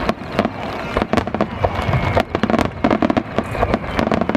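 Aerial firework shells bursting in a rapid barrage, with many sharp bangs in quick succession, several a second.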